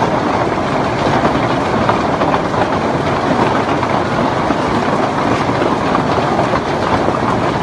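Hail falling heavily with rain, a dense steady clatter of countless hailstone impacts.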